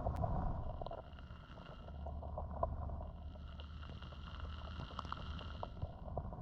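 Small stream flowing, heard as a low, muffled rumble of water with scattered faint clicks.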